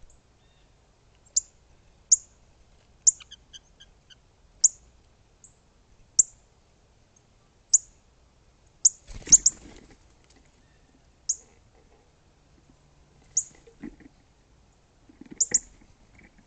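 Bird chip calls: short, sharp, high-pitched chirps, each dropping quickly in pitch, repeated at irregular gaps of about one to two seconds. A brief rustling thud comes about halfway through.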